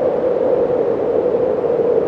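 Steady wind, an even rushing noise with a hollow, slightly pitched middle-low tone and no gusts or breaks.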